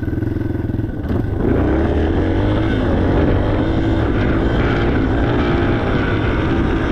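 Yamaha TTR 230 trail bike's single-cylinder four-stroke engine running while the bike is ridden; the engine note drops briefly about a second in, then picks up and holds steady.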